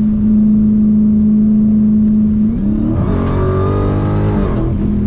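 Dodge Challenger Hellcat's supercharged V8 running at a steady drone. About two and a half seconds in it revs up under hard acceleration, then eases back off near the end.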